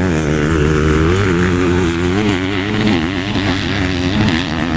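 Motocross bike engines revving out on the track, their pitch rising and falling again and again as riders work the throttle; more than one engine can be heard at once.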